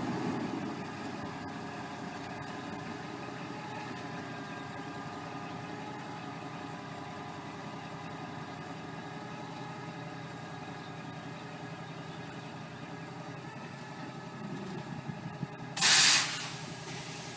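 Semi truck's diesel engine idling steadily. About 16 s in comes one short, loud hiss of air brakes releasing air.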